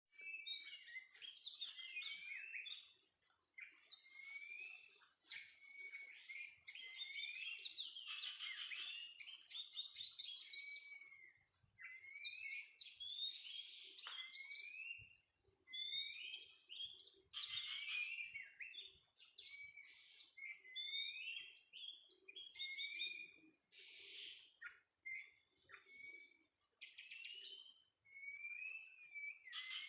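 Oriental magpie-robin (kacer) singing: a continuous run of varied whistled phrases, rising and falling glides and rapid trills. A faint steady high tone lies underneath.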